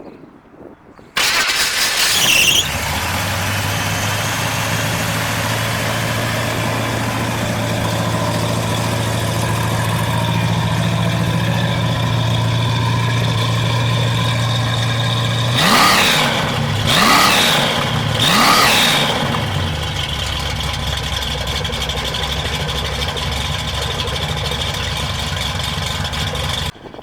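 A 1967 Chevrolet Nova's 350 cubic inch V8 with a lumpy performance cam starts about a second in, flaring up briefly before settling into a steady fast idle. It then takes three quick throttle blips that rise and fall in pitch, settles to a lower idle, and stops abruptly near the end.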